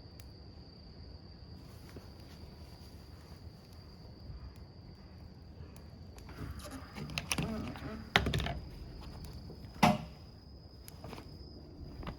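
Wood campfire burning, with a busier stretch past the middle and a few sharp pops about seven, eight and ten seconds in, over a steady high insect trill.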